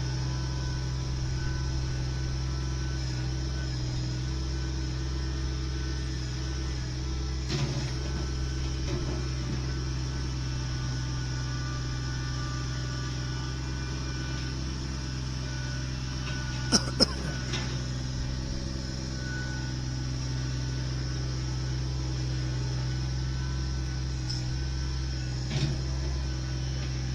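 Engine of a wheeled land-clearing machine running steadily with a deep drone, broken by a few sharp knocks, the loudest a quick double knock about two-thirds of the way through.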